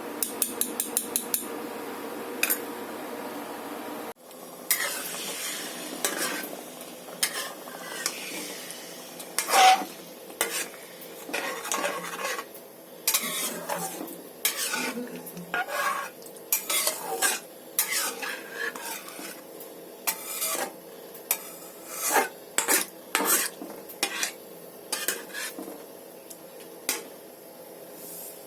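A metal spoon clinking and scraping against metal cookware in irregular strokes, with a quick run of light ticks in the first second or so.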